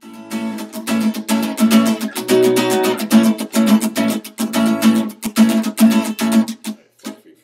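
Acoustic guitar strummed in a quick, even rhythm of chords, stopping about a second before the end.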